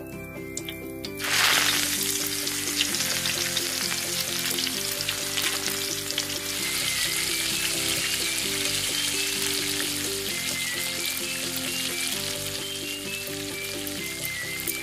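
Cheetos-crusted mac and cheese sticks going into hot oil in a miniature pan: the frying sizzle starts suddenly about a second in and then runs steadily as the oil bubbles around them.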